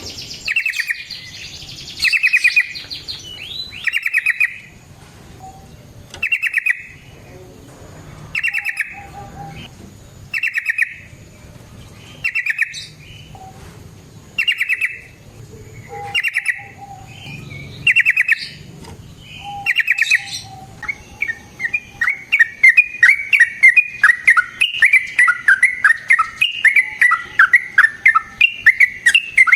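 Yellow-vented bulbul (trucukan) singing: a short bubbly phrase repeated about every two seconds, then, from about two-thirds of the way in, a long fast run of chattering notes without a break.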